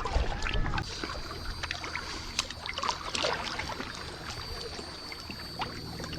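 Kayak paddling: the paddle blade dipping and water splashing and dripping off it in small, irregular splashes.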